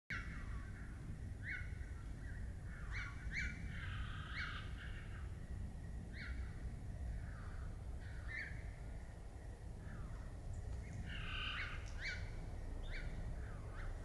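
Small songbird chirping: short calls repeated irregularly, about one every second or so, some in quick pairs, over a steady low rumble.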